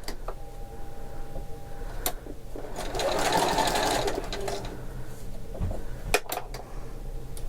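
Domestic sewing machine stitching through fabric in short runs over a steady motor hum, with a few sharp clicks from handling the machine.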